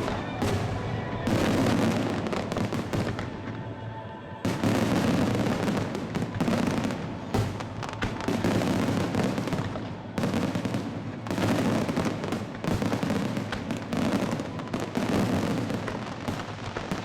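Aerial fireworks bursting in a rapid, continuous barrage of bangs, thinning briefly about four seconds in and then resuming heavily, with music playing underneath.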